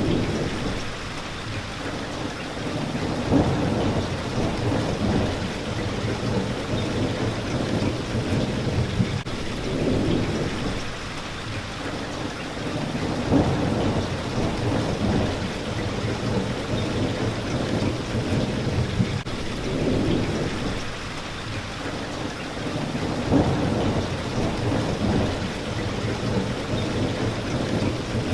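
Steady rain hitting a window. A low rumbling swell rises and falls about every three seconds.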